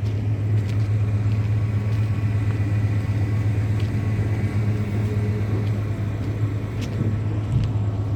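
Diesel semi truck engine idling with a steady low rumble.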